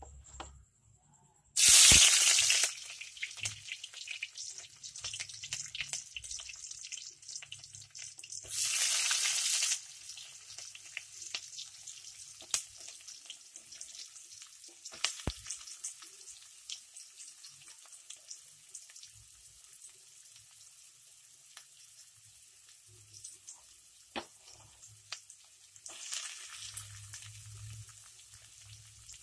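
Chopped onions and green chillies hitting hot oil in an iron kadai, with a loud sizzle about 2 s in and another about 9 s in. Between and after those bursts they fry with a steady crackle and scattered pops, and the sizzle swells again near the end.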